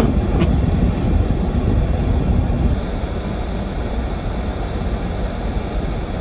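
Blizzard-force wind buffeting the microphone, a heavy, gusting low rumble that eases slightly about three seconds in.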